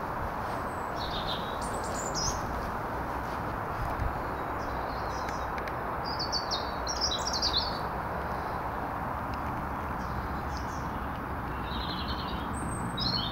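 Small birds chirping in short runs of high notes, about a second in, most busily around the middle, and again near the end, over a steady rushing background noise.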